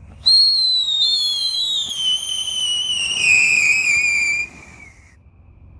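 A whistling firework gives one long, shrill whistle that slides slowly down in pitch for about four and a half seconds, then stops.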